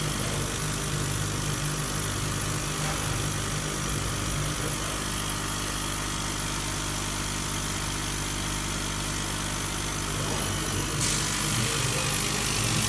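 Laser cutting and engraving machine running with a steady mechanical hum and a haze of fan-like noise; about eleven seconds in a higher hiss steps up.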